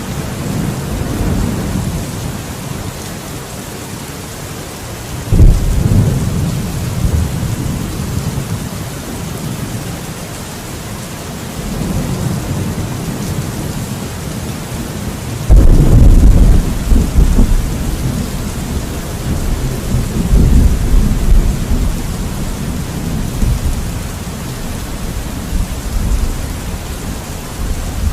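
Thunderstorm: steady rain hiss with rolling thunder, a sharp clap about five seconds in and a louder, longer deep rumble from about the middle that rolls on for several seconds.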